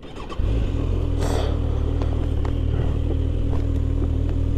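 Suzuki GSX650F's inline-four engine comes in suddenly about half a second in, then runs steadily at idle, with a brief hiss a little after a second in.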